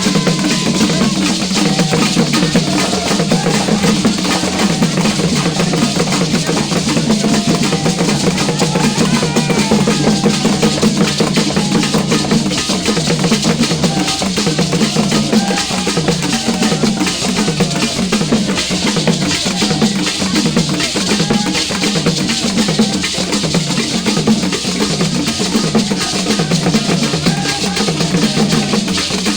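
Continuous loud drumming: a dense, driving rhythm of deep drum strokes with sharper hits over them, keeping a steady beat.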